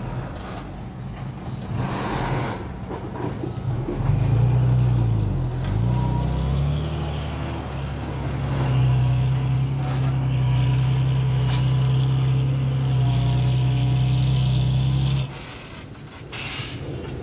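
Heavy diesel engine of earthmoving equipment working hard. Its note dips and recovers about five seconds in, then holds loud and steady before dropping away suddenly near the end.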